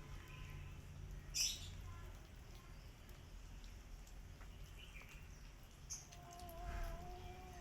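A kitten giving one long, slightly wavering mew near the end, after a brief high squeak about a second and a half in, over a low background rumble.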